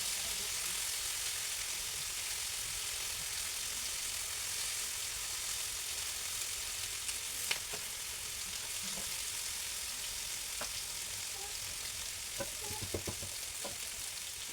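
Food frying in hot oil, a steady sizzle, with a sharp click about halfway and a short run of knocks near the end.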